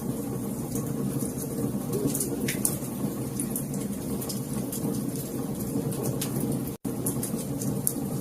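Wood fire crackling, with scattered sharp pops and snaps over a steady low rumble of burning flames. The sound cuts out for an instant about seven seconds in.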